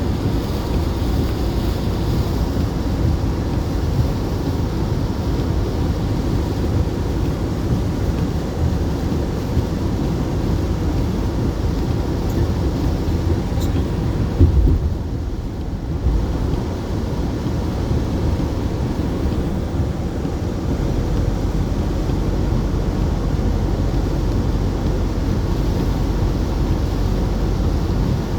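Steady low rumble with wind noise on the microphone, and a single brief knock about halfway through.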